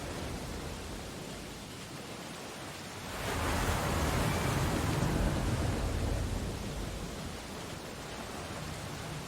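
Ocean surf: a steady wash of waves, with one wave breaking about three seconds in that swells louder for about three seconds and then fades back to the steady hiss.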